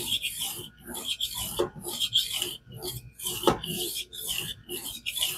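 Knife blade stroked back and forth across a wet King water stone in a guided fixed-angle sharpener, a rasping scrape about two strokes a second.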